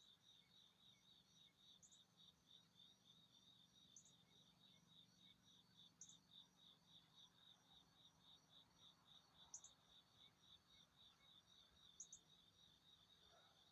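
Faint, even cricket-like chirping, about three or four pulses a second, with a short, higher chirp every two seconds or so.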